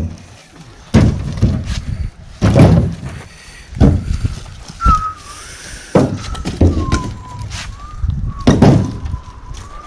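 Heavy wooden thuds repeating roughly every second or so, as rounds of freshly cut black walnut are handled and struck. A faint, thin wavering whistle runs under the second half.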